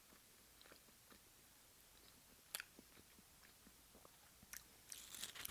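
Faint chewing of sushi and raw fish, with soft, scattered wet mouth clicks. There is one sharper click about two and a half seconds in and a few crackly ticks near the end.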